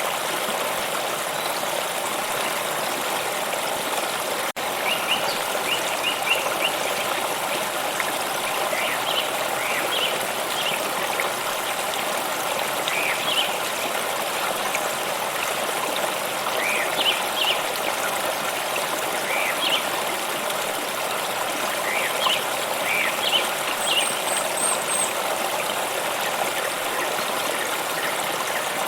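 A small stream running and trickling steadily, with birds chirping in short scattered calls over it from about five seconds in. The sound cuts out for a split second about four and a half seconds in.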